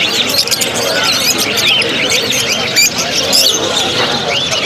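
Many small caged birds chirping together, short quick rising and falling calls overlapping densely, over a steady background murmur.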